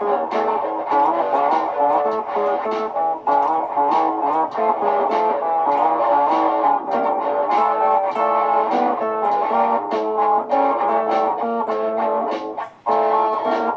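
Layered electric guitar loops playing together, with many picked notes repeating over one another; the sound drops out for an instant about thirteen seconds in, then the loops carry on.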